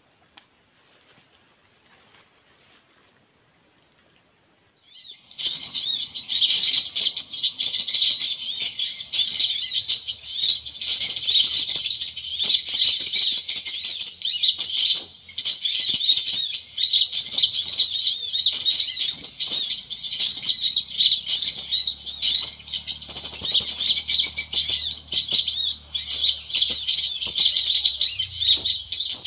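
A steady high insect drone, then about five seconds in a dense, continuous twittering of small birds begins: rapid high chirps with quick up-and-down pitch glides that runs on without a break.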